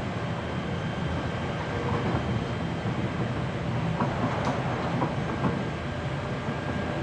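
Hankyu 7300 series electric train, with DC compound motors under field-chopper control, running along the line, heard from the floor inside the car: a steady rumble of wheels and running gear, with a few short clicks from the rail joints.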